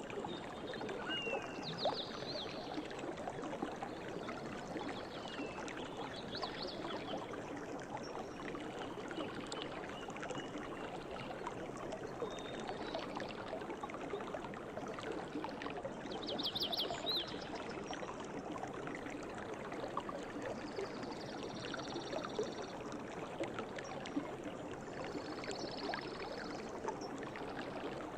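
River water flowing steadily, with birds chirping and trilling over it now and then.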